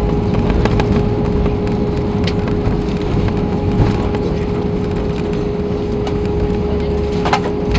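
Cabin noise of an Airbus A321 on the ground after landing: a steady low rumble with a constant hum and a fainter higher tone, and a few light clicks.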